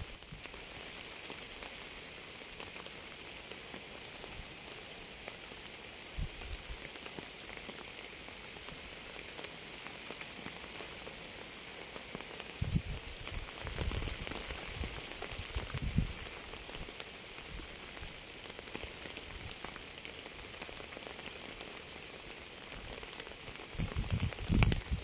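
Steady rain falling, an even hiss of many drops. A few short low rumbles come through about a third of the way in, around the middle and again near the end.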